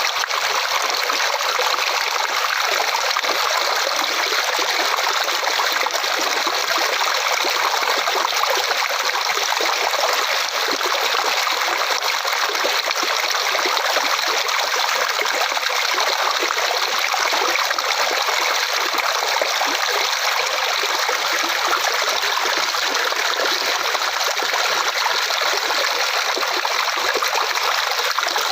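Flowing water, a stream running and trickling steadily, with a light, high-pitched rush and little low rumble.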